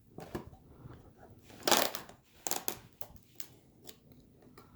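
Packaging for a small figure kit being handled and opened: a handful of short crinkles and clicks, the loudest about two seconds in.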